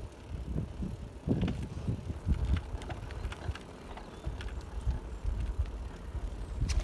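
Bicycle riding along, with wind rumbling on the microphone and irregular light clicks and rattles from the bike.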